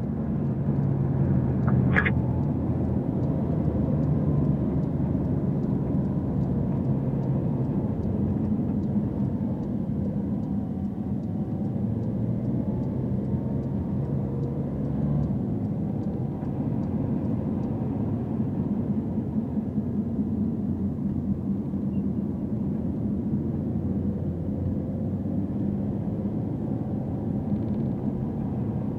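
Porsche 911 Turbo S's twin-turbo flat-six running steadily under light throttle at low speed, with tyre and road noise, heard inside the cabin. A single sharp click about two seconds in.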